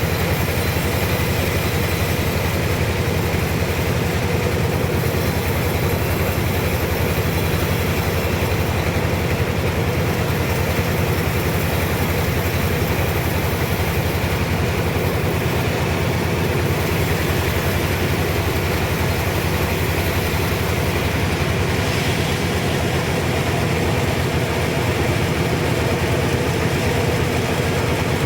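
Sawmill machinery running steadily: a constant loud mechanical noise with a low hum underneath, unchanging throughout.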